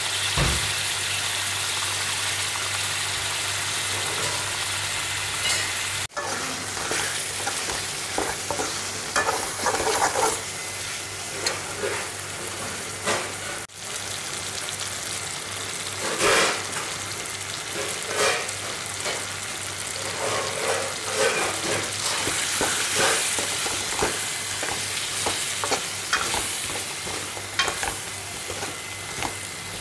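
Brinjals, tomatoes and shallots sizzling in hot oil in a metal pan, with a steel ladle stirring and scraping the pan every so often. The sizzle drops out briefly twice.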